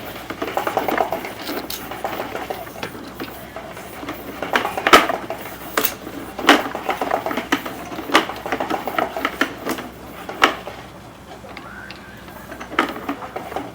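Sewer inspection camera push rod and reel being fed into a drain line: irregular clatter with sharp knocks, the loudest about five seconds in.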